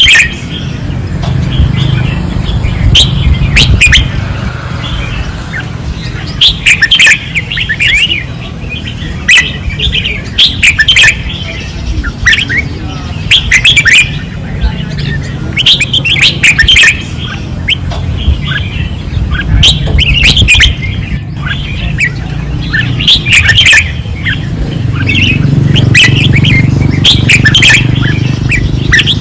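Red-whiskered bulbuls singing loudly in short, bright, quick phrases, one after another every second or two and sometimes overlapping, over a steady low rumble.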